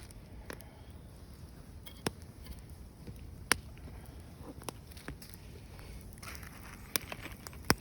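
A handful of sharp, irregularly spaced knocks and pops, about six, over a low steady background rumble.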